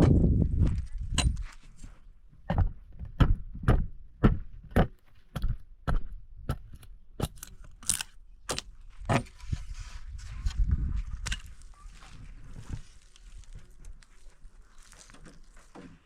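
A run of sharp knocks, about two a second for several seconds, then a few more spaced out, typical of work such as hammering or chopping wood.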